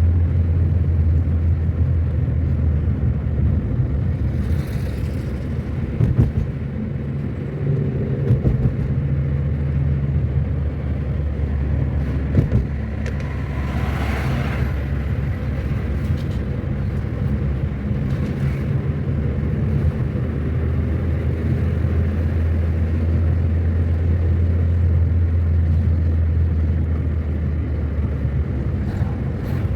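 Car driving on the road: steady low engine and road rumble, its pitch shifting slightly now and then, with a brief louder rush of noise about fourteen seconds in.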